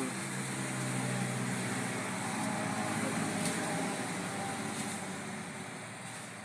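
A motor vehicle engine running, with the sound swelling a little and then easing off as it goes by.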